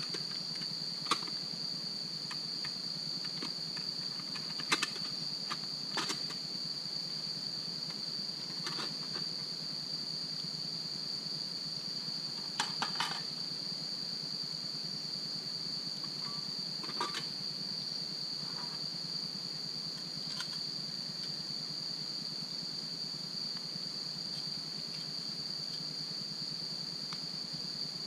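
Campfire burning with a scattering of sharp crackles and pops, including a quick cluster about halfway through, over a steady high chirring of crickets.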